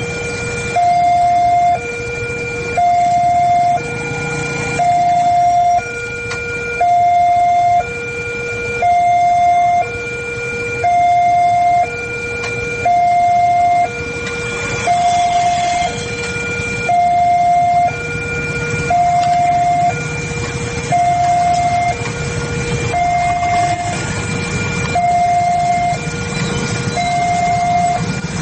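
Electronic railway level-crossing warning alarm sounding steadily, alternating between a higher and a lower tone, each held about a second. A steady low rumble runs underneath.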